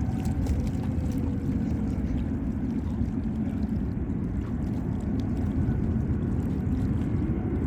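Jet airliner engines making a steady low rumble, with a faint whine above it.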